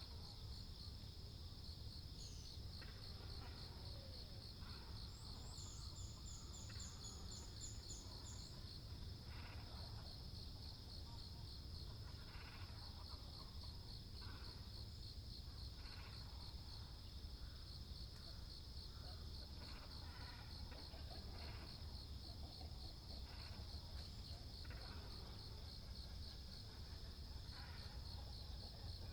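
A steady, fast-pulsing insect trill runs throughout, with scattered short calls of waterbirds, great cormorants and herons, rising out of it at irregular intervals. A small bird gives a quick high twittering series about six seconds in.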